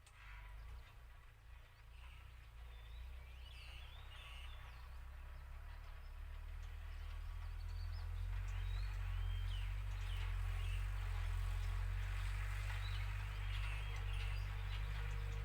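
Low drone of an ISEKI NT554 tractor's diesel engine working a ploughing run in a rough paddy field, growing louder from about halfway in. Small birds chirp repeatedly over it.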